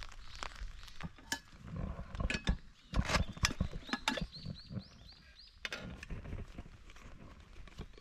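A series of light clinks and knocks, with the loudest cluster a few seconds in, typical of metal camp cookware being handled while brewing a drink on a burner. A few short, high rising chirps come in around the middle.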